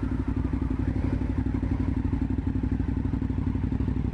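Touring-enduro motorcycle engine running steadily at low revs, with an even, rapid firing pulse.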